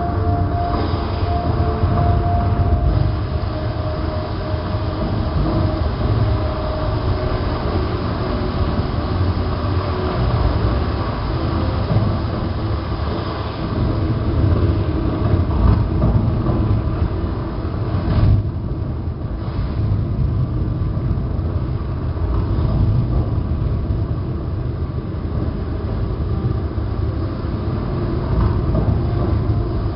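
Steady low rumble and rushing noise of a moving vehicle, with a few faint steady tones in the first few seconds.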